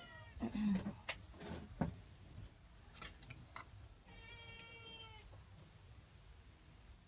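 A cat meowing once, a drawn-out call of about a second that falls slightly in pitch, about four seconds in. Before it come a few sharp clicks and a soft thump.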